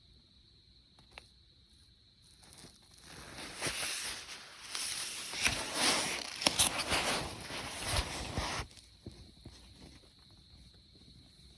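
Close rustling and scuffing with sharp crackly clicks, rising to a peak and stopping after about five seconds.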